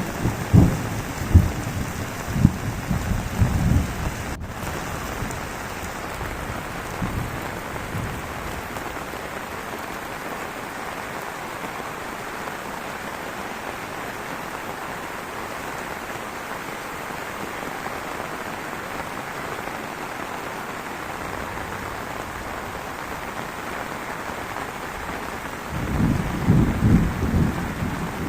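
Heavy rain falling steadily. Low rumbling thunder comes through in the first few seconds and again near the end.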